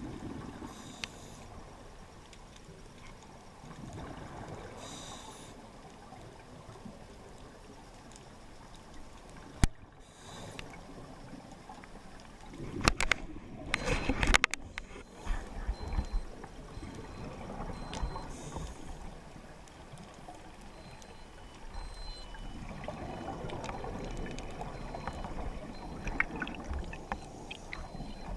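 Water gurgling and bubbling, heard muffled as if recorded underwater, typical of a scuba diver's exhaled regulator bubbles. There is one sharp knock about ten seconds in, and a burst of crackling knocks and rattles a few seconds later.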